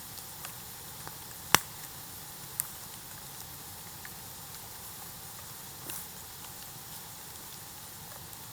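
Bamboo bonfire crackling with a steady hiss and scattered small ticks, and one loud sharp pop about a second and a half in, followed by a smaller pop about a second later.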